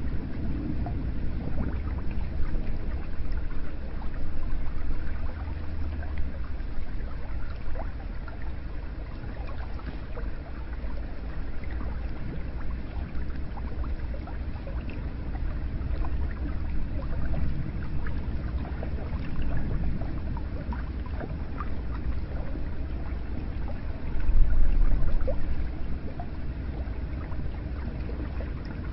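Hot spring water running steadily, a continuous low rush flecked with small splashes and trickles, briefly louder about 24 seconds in.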